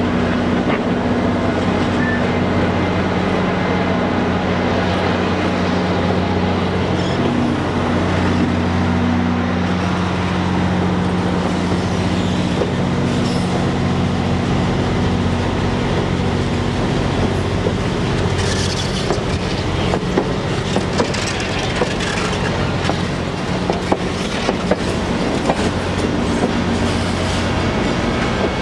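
Passenger train passing close by. A diesel locomotive's engine drones steadily, and from about two-thirds of the way through the coaches' wheels click sharply over the rail joints.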